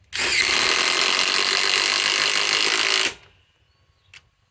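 DeWalt Atomic DCF921 cordless impact wrench, fitted with a bit adapter, hammering steadily as it drives a 5/16 by 3 inch lag screw into wood for about three seconds, then stopping suddenly.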